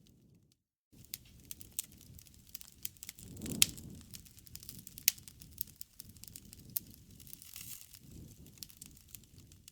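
Wood campfire crackling, with irregular sharp snaps and pops over the low flutter of the flames. The sound drops out briefly just after the start; the loudest pop, with a swell of flame rumble, comes about three and a half seconds in, and another sharp snap about five seconds in.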